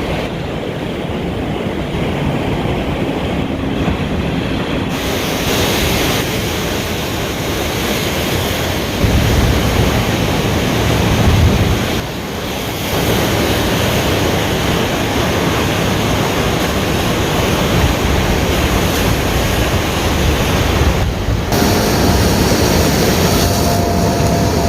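Ocean surf breaking and washing on the shore: a continuous rushing noise that swells and eases, with heavier low rumble midway.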